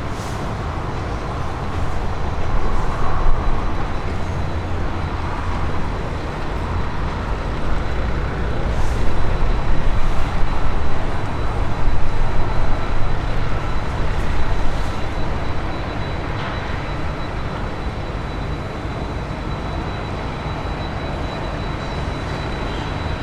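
Aircraft engines making a steady low rumble with a faint high whine, swelling for a few seconds midway and then holding even.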